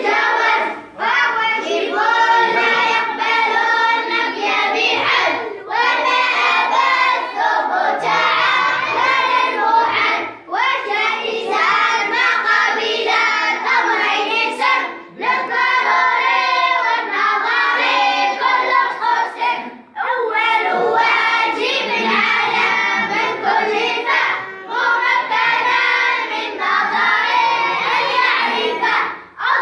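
A group of children's voices chanting together in unison, in phrases of about four to five seconds with short breaks for breath between them.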